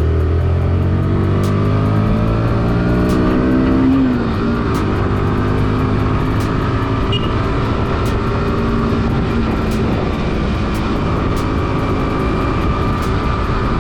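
Motorcycle engine accelerating while riding, with wind noise on the GoPro's microphone. The engine note rises for about four seconds, drops at a gear change, then holds fairly steady.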